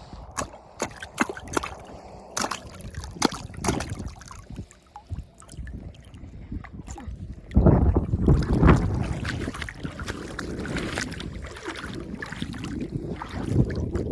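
Sharp clicks and knocks of oyster shells and stones being handled, with water sloshing. About halfway through, a loud low rumble of wind on the microphone takes over.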